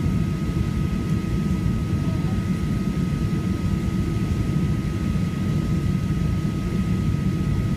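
Boeing 737-800 cabin noise: the steady low rumble of its CFM56 jet engines and airflow, with a thin constant whine running through it.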